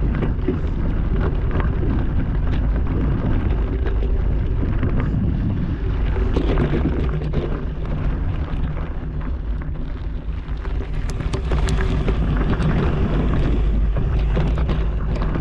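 Wind buffeting the microphone of a bike riding over a rough dirt-and-rock trail, with frequent small rattles and knocks from the bike.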